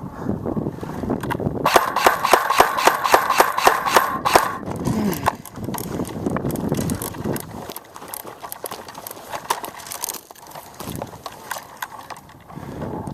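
Paintball marker firing a quick string of about a dozen sharp shots, roughly four a second, for under three seconds, followed by scattered fainter clicks.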